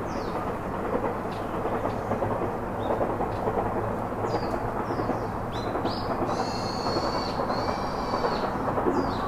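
Birds chirping, with short high calls scattered throughout and a longer held call about six to seven seconds in. Behind them runs a louder, steady rumbling noise.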